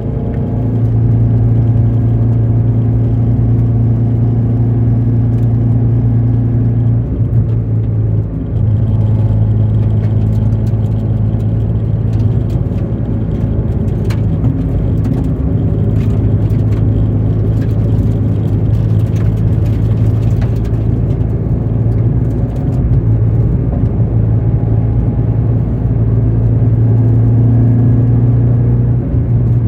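Toyota 86 (ZN6) running on the move with a steady drone, carrying an abnormal noise from the rear that started after a hard lap; the owner suspects the differential or a driveshaft. The drone eases briefly a couple of times.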